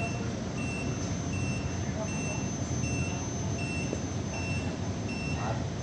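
Electronic warning beeper sounding a steady series of short high beeps, about one every three-quarters of a second, over a steady machinery hum.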